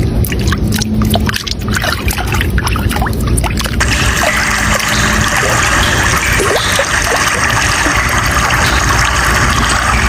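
Running water splashing and trickling over a low rumble. About four seconds in the sound changes abruptly to a denser, steadier rush of water.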